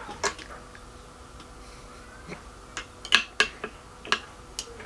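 Scattered sharp clicks and taps of plates and dishes being handled: one just after the start, then a quick cluster of about five about three seconds in.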